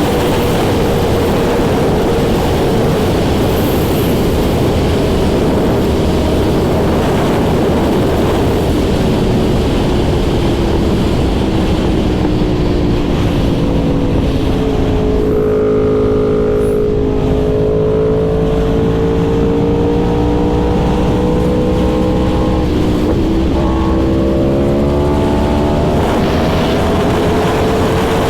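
Yamaha R1's inline-four engine running under way, heard over heavy wind rush on the microphone. The engine note slowly drops and holds as the bike eases off, then climbs again near the end as it picks up speed.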